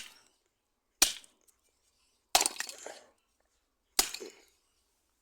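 Sharp, hard knocks of a tool's handle ends being hammered into shape. There are four strikes about a second or more apart, each with a short rattling ring after it, the third lasting longest.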